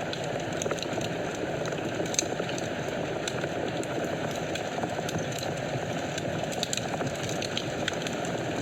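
Fireplace fire burning: a steady low rush of flames with scattered small crackles and pops.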